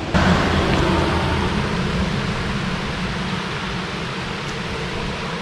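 Waterfall rushing: a steady wash of falling water that jumps up just after the start and then slowly eases.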